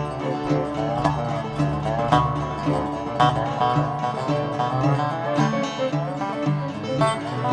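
Bluegrass string band playing a fast picked instrumental, with dobro and banjo-style rolls over a steady bass line.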